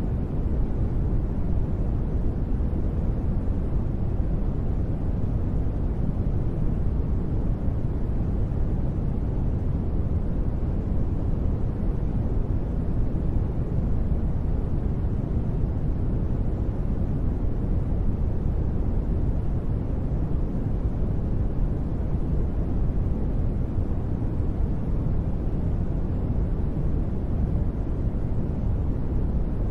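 Continuous synthetic sleep noise, steady and unchanging, deep and dull in tone rather than hissy, with most of its weight in the low range.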